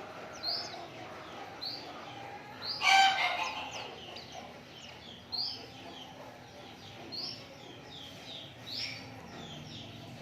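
White-eyes (pleci) chirping and twittering: short, high notes that sweep downward, roughly one a second, with softer twitter between them. About three seconds in there is one louder, lower call.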